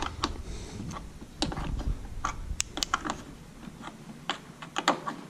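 A wrench clicking and tapping against a threaded throttle-cable fitting on a RedMax blower as it is worked at to unscrew it: scattered sharp metal clicks at uneven intervals.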